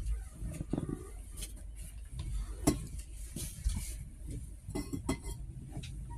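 Passenger train in motion: a low rumble with scattered rattles, clinks and knocks.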